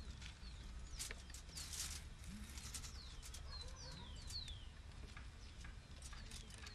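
Birds chirping outdoors: a string of short, high, falling whistles, thickest about halfway through. Brief scratchy noises come and go, over a low steady rumble.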